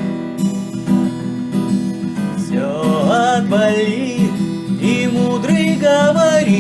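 Acoustic guitar strumming chords. About two and a half seconds in, a voice joins with a wavering melody line.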